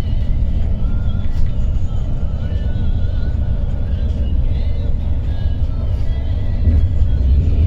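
Steady low rumble of a moving passenger coach's engine and tyres, heard from inside the coach, with faint music playing over it.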